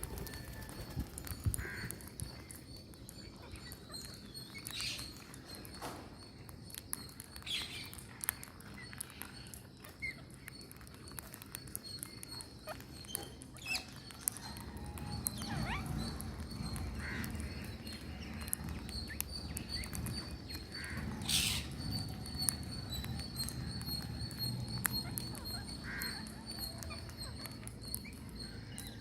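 Birds calling: scattered short chirps and calls, some with a quick slide in pitch. A steady high whine runs underneath, and a low rumble comes in about halfway.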